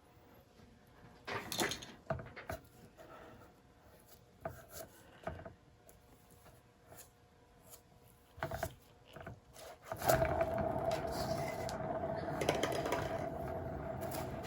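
A few knocks and scrapes of things being handled on a wooden surface, then about ten seconds in a hairdryer switches on and runs steadily, a blowing hiss with a steady hum.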